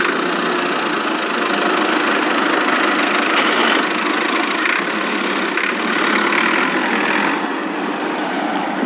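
Small homemade chaff cutter machine running steadily under its small engine, a continuous even mechanical noise.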